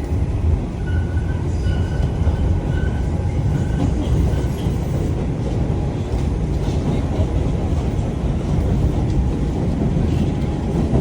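Steady low rumble of a moving vehicle, heard from inside it, with a faint high whine for a few seconds near the start.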